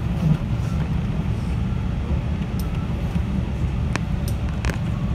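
JR 313 series electric train running, heard from inside the carriage: a steady low rumble of wheels on the rails, with a few short clicks about four seconds in.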